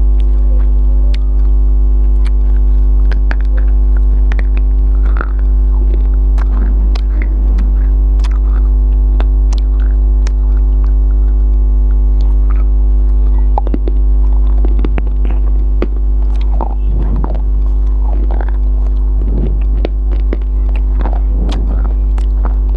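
A loud, steady electrical mains hum, with scattered soft clicks and smacks from someone chewing a mouthful of biryani close to the microphone; the chewing noises come more often in the second half.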